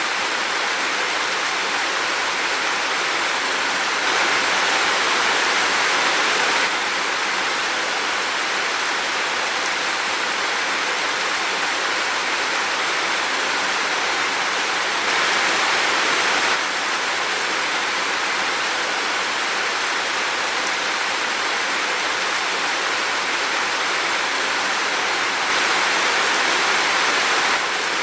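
Heavy rain falling in a steady, dense hiss, with wind. Three times it steps up louder for a second or two.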